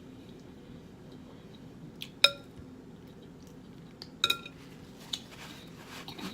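Dishware clinking: a sharp, ringing clink about two seconds in, then a quick double clink about two seconds later, followed by softer clatter.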